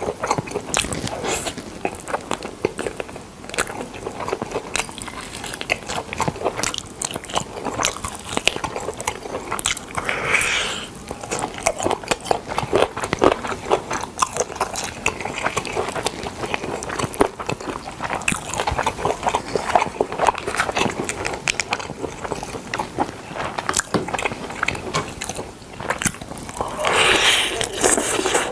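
Close-miked eating of smoked chicken: biting, tearing and chewing, with a dense run of small wet clicks and crackles. A couple of longer, softer bursts come about ten seconds in and near the end.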